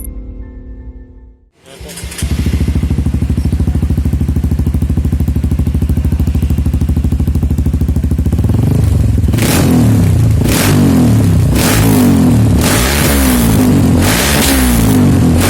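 Honda CRF motorcycle fitted with a Gordon M1 aftermarket exhaust, idling with an even pulse, then revved in short blips about once a second from midway on.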